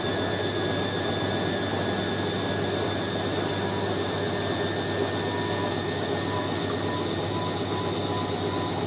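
Hoover A3060 Electronic 1100 washing machine running with a steady mechanical whir, with a faint thin tone joining about halfway through.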